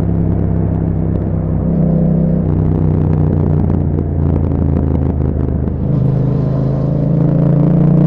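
A 2021 Yamaha MT-07's 689 cc parallel-twin engine running through an Akrapovic exhaust while riding. The note shifts about two seconds in and turns rougher in the middle, then settles into a steady pull with a gently rising pitch from about six seconds in.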